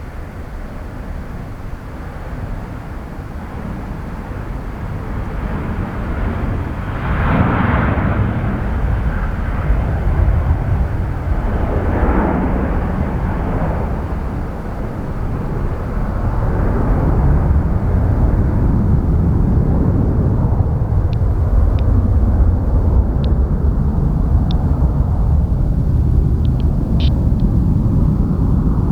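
Jet airliner engines rumbling as an aircraft passes, the sound growing louder over the first several seconds, swelling twice, then holding steady and loud. A few faint ticks come late on.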